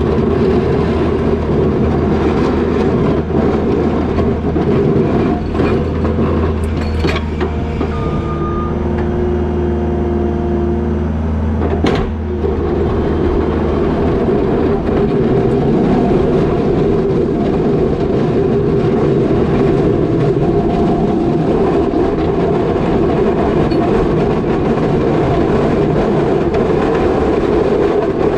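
New Holland L220 skid steer's diesel engine running steadily under load while pushing snow with a box plow. There are two sharp knocks, about a quarter of the way in and again near the middle, and the deep low hum drops away soon after the middle.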